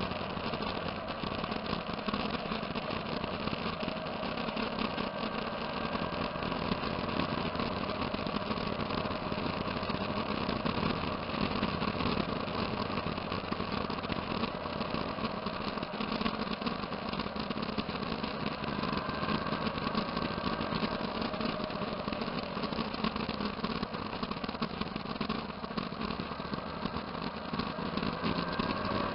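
Several motorcycle engines running together at low speed, a steady mixed engine noise; near the end one engine rises in pitch as it speeds up.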